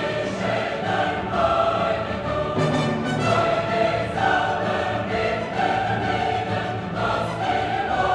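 Classical choral music: a choir singing with an orchestra.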